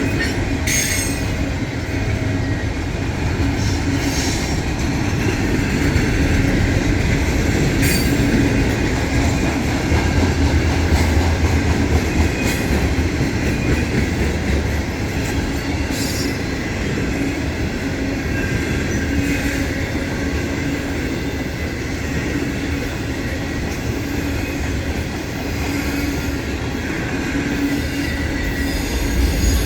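Freight train cars rolling past steadily, steel wheels clicking over the rail and squealing at times.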